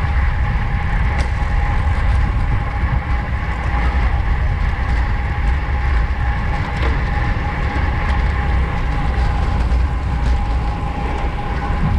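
Wind rushing over the microphone of a camera on a bicycle racing at speed in a pack, a steady low rumble with a faint steady whine and a few light clicks.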